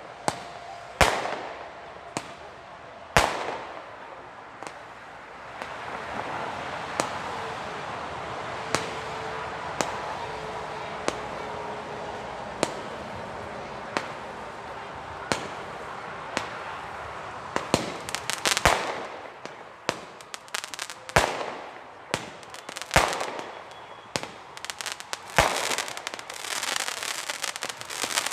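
Weco Pyro Concept 905 compound fireworks battery firing. Separate sharp shots come about every two seconds, then a steady hiss with a pop every second or so, and from about two-thirds of the way in the shots come in rapid clusters.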